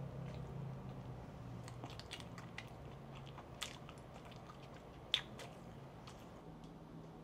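Close-miked chewing of soft pandan roll cake: scattered wet mouth clicks and smacks, with two sharper clicks about three and a half and five seconds in, over a faint low hum.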